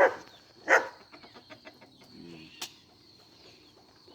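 A dog barking twice in quick succession at the start, followed by a few faint ticks and one sharp click a little past halfway.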